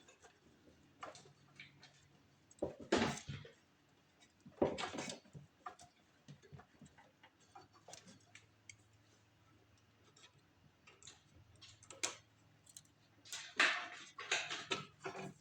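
Scattered clicks and rustling of hands working new fuel line and a fuel filter onto a snowblower's fuel system. Louder handling noises come about three and five seconds in, and a cluster near the end.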